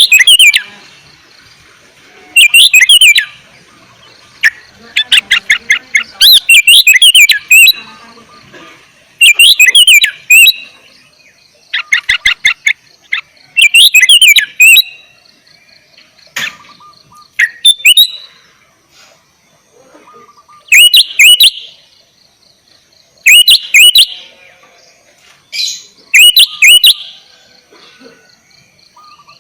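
Sooty-headed bulbul (kutilang) singing loud, short bubbly whistled phrases that swoop up and down, repeated every two seconds or so with short pauses between them.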